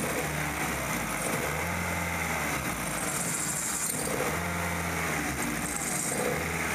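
1998 Kia Sephia's 1.8-litre DOHC four-cylinder engine idling rough with a misfire, its low note swelling and fading unevenly.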